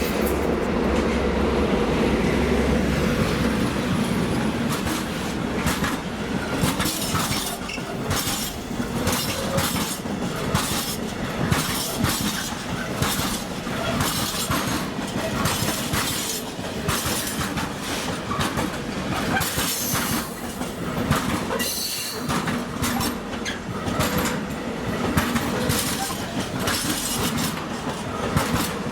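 A train passing close by: a deep hum for the first few seconds, then a long run of wheels clattering and clacking over the rail joints as the wagons roll past.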